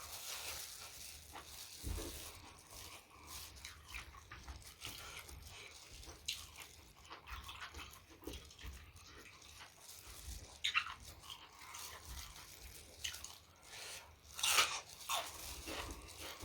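Close-up eating sounds: irregular wet chewing, smacking and crunching, with a louder crunch about three-quarters of the way through.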